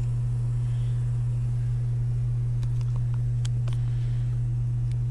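A steady low hum that does not change, with a few faint clicks about three seconds in.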